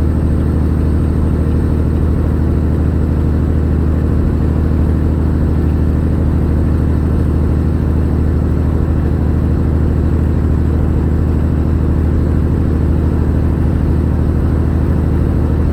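Semi truck's diesel engine running steadily, a low, even drone with no change in speed.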